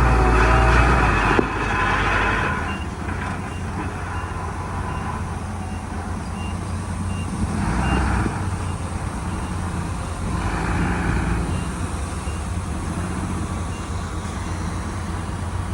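Heavy diesel earthmoving machinery running steadily, with a reversing alarm beeping at an even pace. The engine noise swells louder at the start and twice more, about halfway through and a few seconds later.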